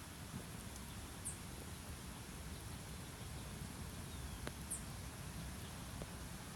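Quiet outdoor nature ambience: a steady low rumble with a few faint ticks, and two brief high-pitched chirps, one about a second in and one near the end.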